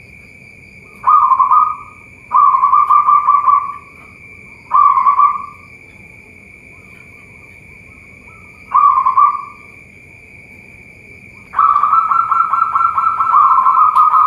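Zebra doves (perkutut) cooing in quick trilled bursts: four short phrases, then a longer unbroken stretch starting near the end. A steady high whine runs underneath.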